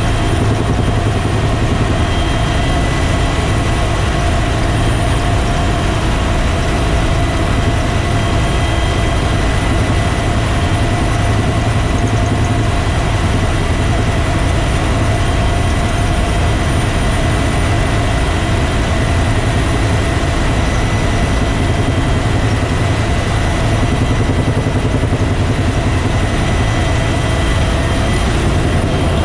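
Bell UH-1 Huey helicopter in flight, heard from on board: a loud, steady mix of turbine whine, rotor noise and rushing air.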